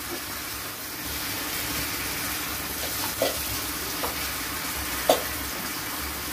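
Chicken pieces sizzling as they fry in spiced oil in a nonstick kadai, stirred with a wooden spatula. The spatula knocks against the pan three times in the second half, the loudest about five seconds in.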